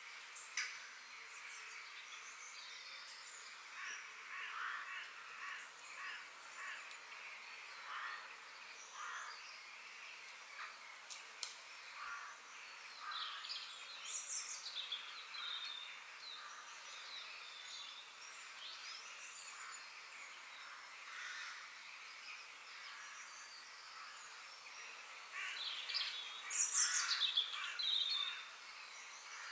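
Several wild birds calling and chirping over a steady high hiss of outdoor ambience, with the loudest flurry of quick chirps near the end.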